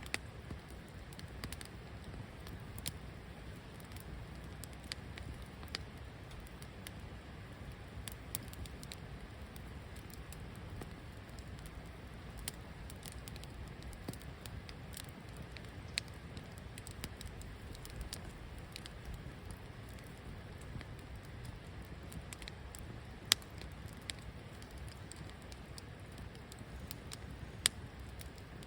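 Wood fire burning in a fire stand: a steady low rumble of flames with scattered sharp crackles and pops, the loudest snaps about 23 seconds in and again near the end.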